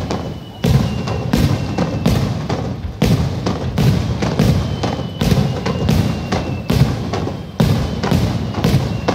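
Aerial firework shells bursting in quick succession, about a dozen booms more than one a second, each trailing into a low rumble.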